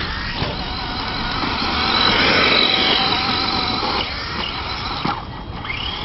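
Losi Desert Truck RC truck's Trinity 17-turn electric motor whining as it is driven, the pitch rising and falling with the throttle and loudest about two seconds in, with a quick rising whine near the end.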